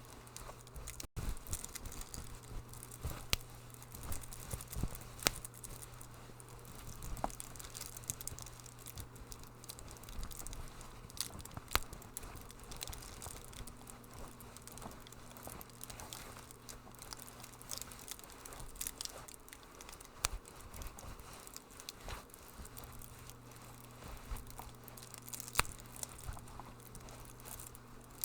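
Wood fire crackling in a fireplace: irregular sharp pops and snaps over a soft steady hiss, with a faint low hum underneath.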